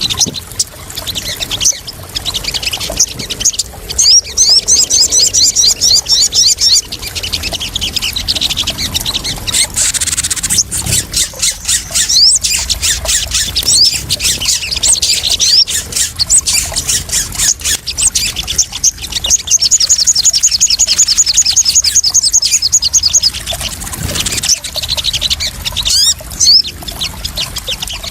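Sogon birds calling: sharp high chirps and long, fast, even trills, over a steady trickle and splash of water.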